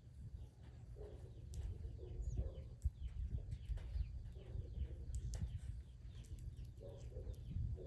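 Backyard birds chirping and calling, with many short falling chirps, over a steady low rumble.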